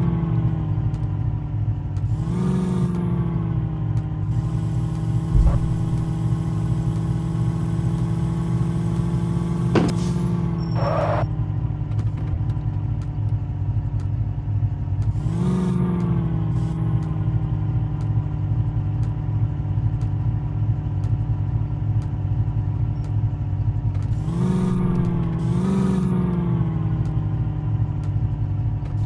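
Tractor diesel engine running steadily, its revs briefly picking up and settling back a few times: about two seconds in, around fifteen seconds, and twice near the end.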